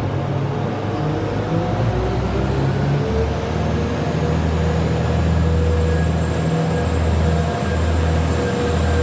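A train at a station platform: a steady low engine drone with a slowly rising whine above it, as the train's engines or traction motors work.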